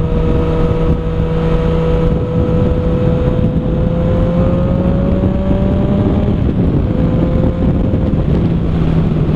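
Yamaha FZ-09 inline-three engine running through an Arrow exhaust with the dB killer removed, while riding. Its pitch climbs slowly in the middle and eases off after about six seconds, with wind rushing over the microphone.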